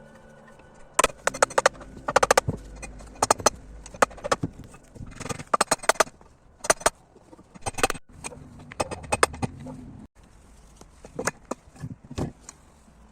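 Tools and parts being handled while an IZh-49 motorcycle engine is taken apart: irregular clusters of sharp clicks and knocks, with short pauses between them.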